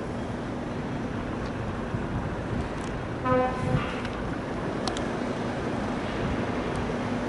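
Steady outdoor background noise with a faint low hum, and one short pitched toot, like a horn, about three seconds in.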